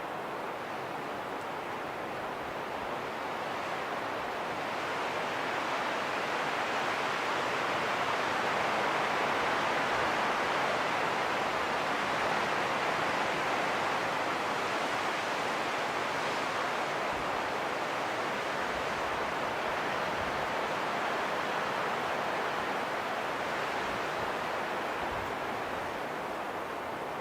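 Wind rushing steadily, swelling slowly over several seconds and then gradually easing.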